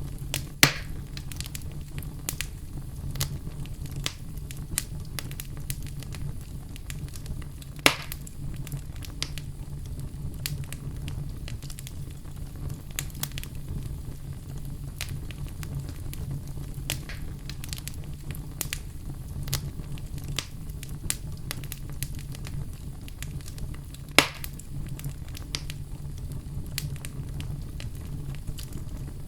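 Wood fire crackling in a fireplace: a steady low rumble of flames with scattered sharp crackles and three louder pops from the burning wood.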